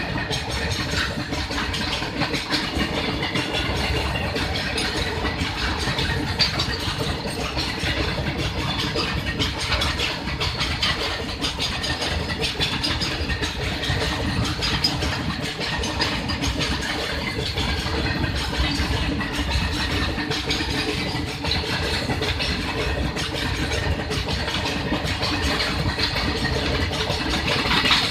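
WAG-12 electric freight locomotive running, a continuous steady rumble with hiss that holds at an even level throughout.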